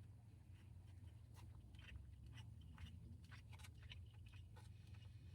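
Near silence: a faint low room hum with scattered soft clicks.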